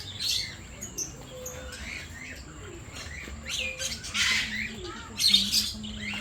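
A mix of aviary birds calling together, many short chirps overlapping with squawks, and louder harsh calls about four seconds in and again around five and a half seconds.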